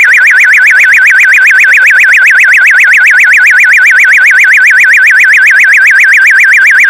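A loud, steady electronic warbling tone, its pitch wavering rapidly up and down about seven times a second, like an alarm.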